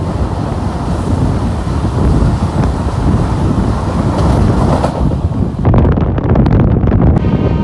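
Moving express train heard from on board: a steady rumble of wheels running on the track, with wind buffeting the microphone. In the second half there is a run of short clacks.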